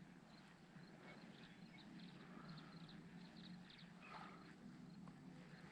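Near silence: faint outdoor ambience with a low steady hum and a few faint, short, high chirps.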